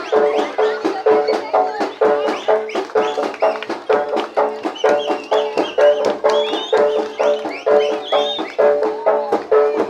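Live jaranan music: rapid hand-drum strokes, several a second, over sustained gong-chime tones and a wavering high melody, typical of a slompret.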